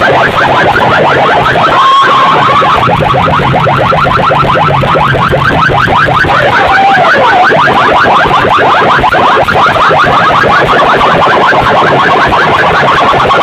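A DJ sound-system competition's loudspeaker stacks playing a very loud electronic track: a rapid, rattling alarm-like pulse repeating many times a second over a stepped bass line.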